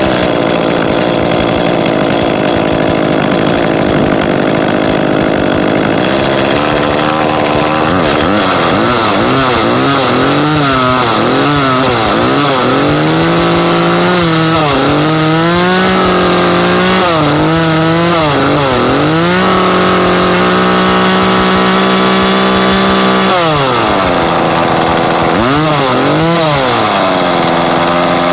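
Echo CS-305 two-stroke chainsaw engine running just after starting, steady at first, then revved up and down again and again. It is held at high revs for a few seconds, drops back sharply, and is revved again near the end. It now runs after its fuel and bar oil, which had been poured into each other's tanks, were put in the right places.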